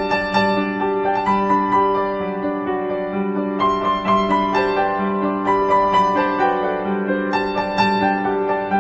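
Background piano music: a gentle, slow melody over held chords.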